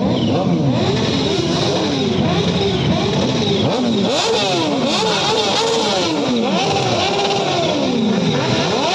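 Several superbike engines revving together, their pitch repeatedly climbing and falling as the throttles are blipped, several at once and overlapping.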